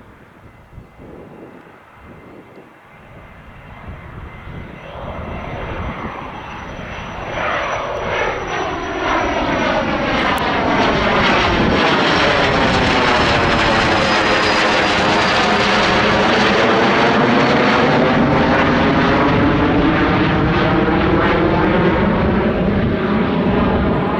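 Cessna Citation Mustang business jet's twin Pratt & Whitney PW615F turbofans, growing steadily louder over about ten seconds as the jet approaches, then staying loud as it passes close by. A high turbine whine drifts slightly down in pitch.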